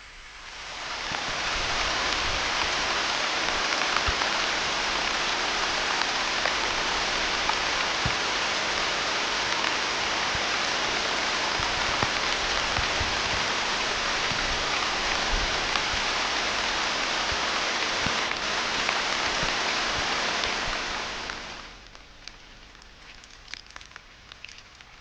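Heavy rain falling steadily, a dense hiss with scattered drop ticks. It fades in at the start and fades out near the end, leaving faint scattered ticks.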